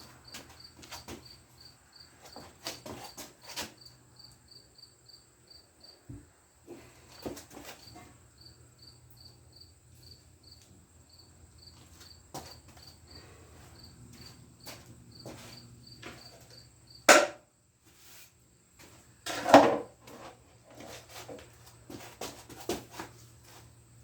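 A cricket chirping steadily, about three short high chirps a second, over a low hum, until the chirping stops about two-thirds of the way in. Scattered clicks and knocks of tools or metal parts being handled are heard throughout, with two loud clunks after the chirping stops.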